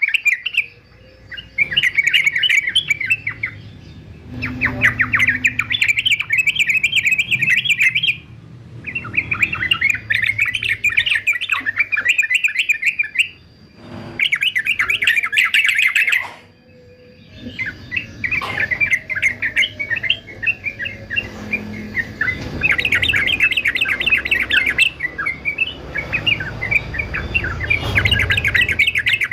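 Male yellow-vented bulbul (trucukan) singing a rapid chattering song in phrases of a few seconds each, with short breaks between them.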